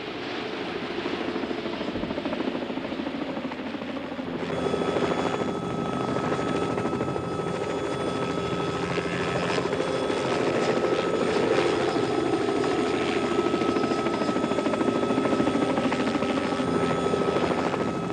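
Helicopter running continuously, its rotor and engine sound growing fuller and louder about four and a half seconds in, with a steady whine over it from then on.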